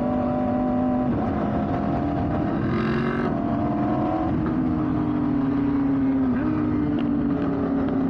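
Aprilia RSV4 1100 Factory's V4 engine running under way, its pitch dropping about a second in, climbing, then easing down and picking up again near the end as the throttle changes.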